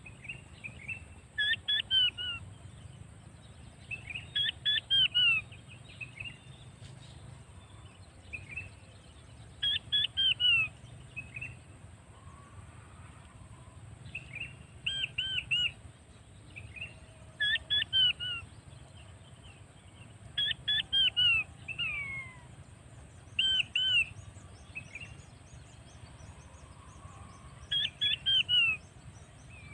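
A bird calling over and over: groups of two to four short, high whistles, each sliding down in pitch, repeated every two to three seconds.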